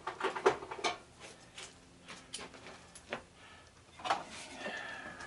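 Irregular clicks and knocks of metal hand tools being handled, a hand impact driver among them; the loudest knocks fall about half a second in and again about four seconds in.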